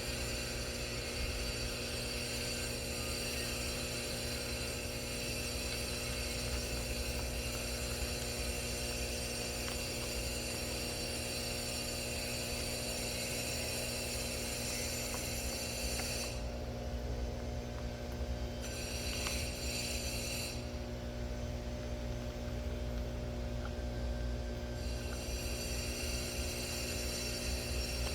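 Steady electrical hum with several high, fixed whines over it. The high whines drop out for a couple of seconds past the middle and again for about four seconds before returning.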